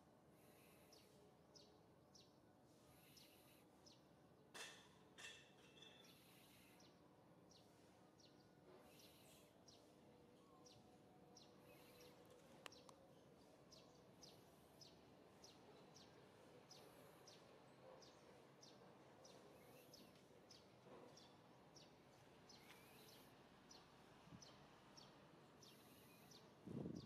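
Near silence: faint outdoor ambience with a small bird chirping over and over, about one or two short chirps a second, and a faint high hiss that swells every couple of seconds. Two soft knocks about five seconds in are the loudest sounds.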